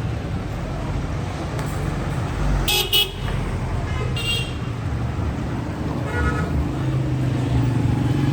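Street traffic with engines running and a vehicle horn tooting: two short blasts about three seconds in, another a second later, and a fainter one around six seconds.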